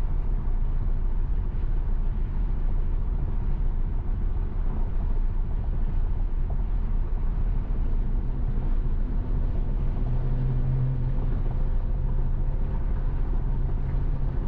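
Steady road and tyre noise of an electric Tesla Model Y cruising at highway speed on a wet road, heard inside the cabin as a low rumble. A faint low hum swells from about the middle of the stretch and then eases.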